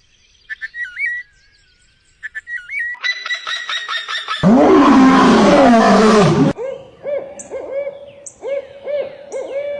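A string of different bird calls, cut one after another: short wavering chirps, then a fast trill about three seconds in, then a loud harsh call with falling sweeps a little after four seconds, then a run of short falling notes with high chirps over them.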